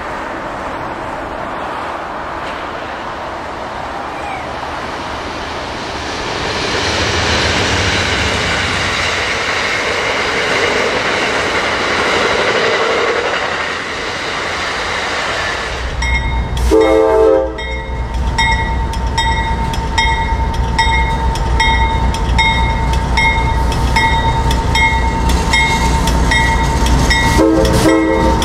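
An Amtrak passenger train running past at a distance, a steady rumble of wheels on rail mixed with highway traffic, growing louder midway. Then a CSX freight train led by GE diesel locomotives passes close: heavy engine rumble, the horn sounding in two short blasts about ten seconds apart, and a bell ringing steadily in between.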